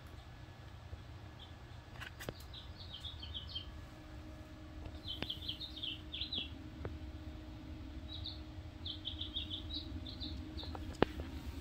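Small songbird chirping in three quick bursts of short high notes, over a faint steady low rumble.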